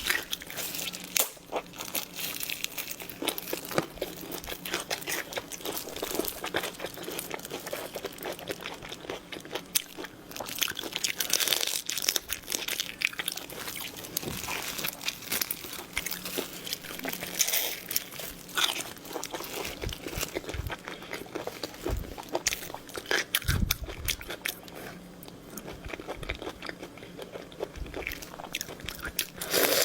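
Close-miked eating: biting and crunching into shrimp and chewing, heard as a dense run of crisp clicks and crackles.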